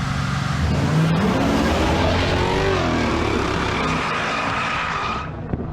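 Drag-racing engines at full throttle during a pass, with a wash of tyre and road noise; the pitch swings about midway and the sound falls away near the end.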